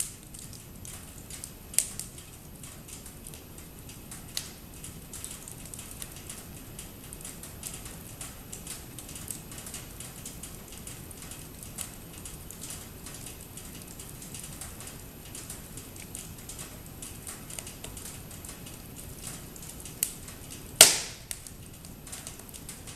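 Wood fire crackling: a dense run of small snaps over a soft hiss, with a few louder pops, the loudest one near the end.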